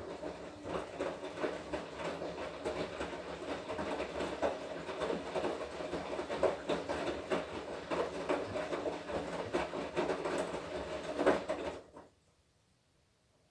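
Washing machine drum turning during the wash cycle, with clothes and water sloshing and rattling inside. It stops suddenly about 12 seconds in, the pause between drum turns.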